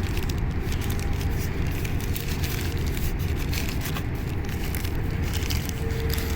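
Steady low rumble with scattered faint crackling clicks.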